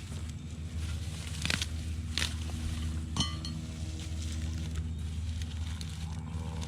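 A small engine running steadily, with a few short clicks and knocks over it, one with a brief squeak about three seconds in.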